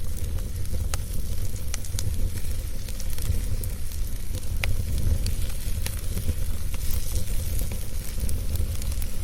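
Wood fire burning in a fireplace: a steady low roar with scattered sharp crackles and pops from the burning wood.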